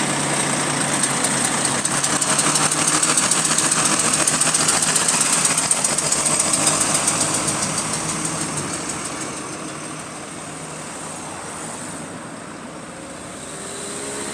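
Bus engine running with a rapid repetitive clicking that keeps time with engine speed. It is loudest in the first half, then both fade as the engine eases off about two-thirds of the way through.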